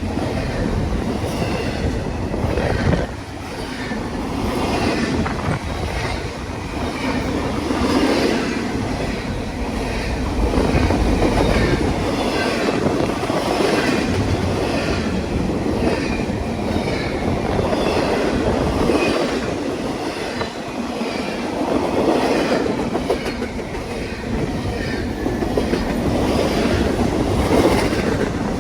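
Railroad cars rolling past, their wheels clicking over the rail joints in a steady rhythm over a continuous rumble.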